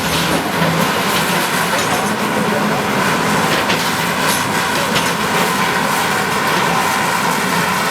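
Bulldozer working: steady engine noise with the rapid clatter of its steel crawler tracks.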